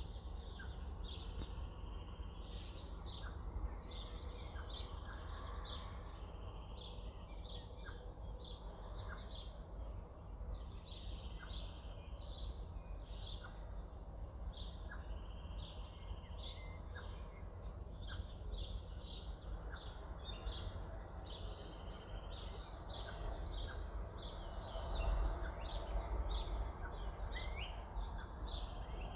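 Birds chirping and twittering steadily in the background, many short calls in quick succession, over a low steady hum.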